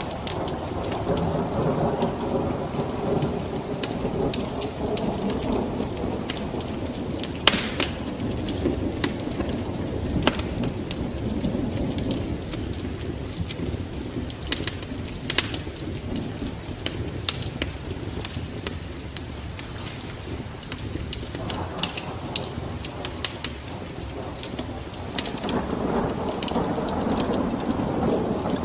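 Wood fire burning in a fireplace: a low roar of flames with constant crackling and scattered sharper pops, the loudest about seven and fifteen seconds in. The roar eases off in the middle and builds again after about twenty seconds.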